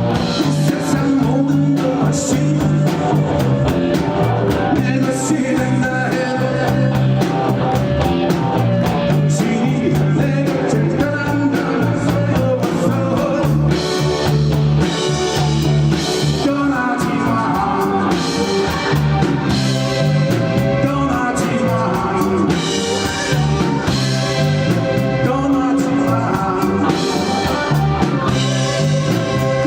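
Live rock band playing a song: drum kit keeping a steady beat under bass and electric guitar, with a singer's voice.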